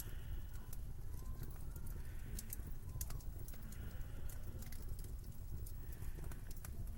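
Slow footsteps crunching through snow, one step about every one and a half to two seconds, with sharp little crackles, over a steady low wind rumble.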